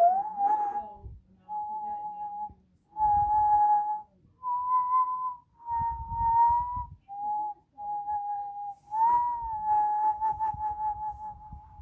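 A person whistling a slow tune: about eight held notes with short gaps, stepping a little up and down in pitch, the last one long and wavering.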